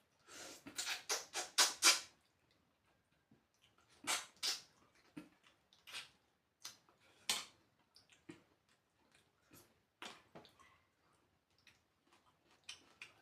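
Mouth noises of someone eating: a quick run of loud slurping and chewing sounds in the first two seconds, then scattered shorter ones with gaps between.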